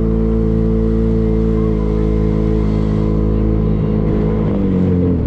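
Boat motor running steadily with an even engine hum; its pitch sags slightly and rises again near the end before it breaks off abruptly.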